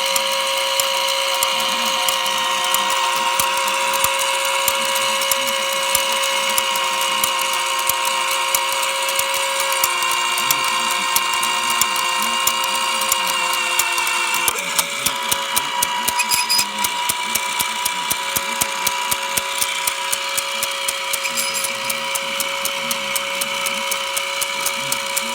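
Collins R-391/URR receiver's motor-driven channel-selection (autotune) mechanism running: a steady motor whine made of several held tones over a rapid, even ratchet-like clicking. The tones shift in pitch twice, once near the middle and again a little later, and after that the clicks come through as distinct ticks.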